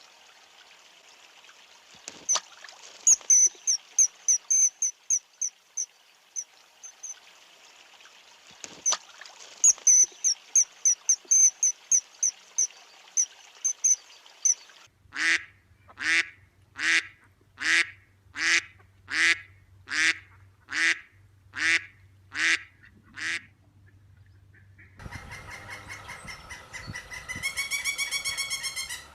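A sequence of bird calls: first a quick run of high, thin, repeated notes, then about eleven loud honks less than a second apart, then a different, rougher call with a rising pitch near the end.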